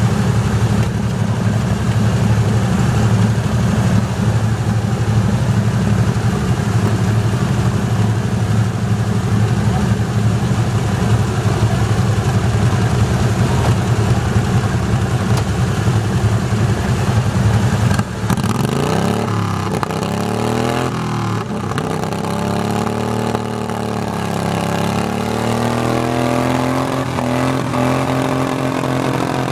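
Garden tractor engine running loud and steady under load. About two thirds of the way through, the sound changes suddenly: the engine's pitch swings up and down as it is revved, then climbs and holds.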